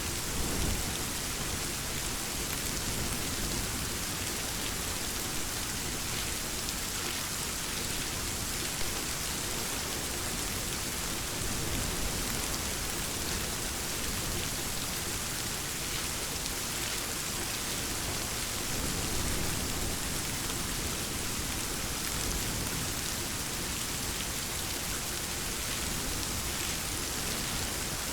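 Steady rain falling, a dense even patter, with a few low rumbles of distant thunder swelling underneath, about a third and two-thirds of the way through.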